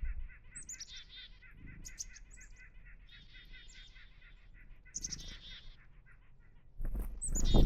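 Chickadees calling: several high notes that slide down in pitch, some running into buzzier notes, over a steady fast pulsing at about four or five beats a second. A few low thumps, the loudest near the end.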